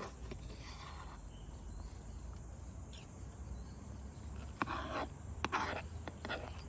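Insects, crickets or similar, singing as a steady high-pitched drone, with a few short rustling sounds, mostly in the second half.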